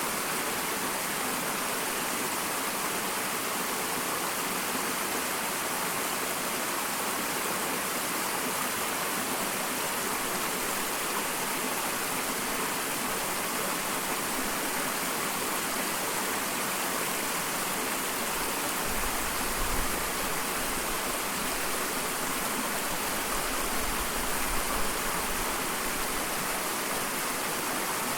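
Small waterfall: water splashing and rushing steadily, with a brief low rumble twice, about two-thirds and seven-eighths of the way through.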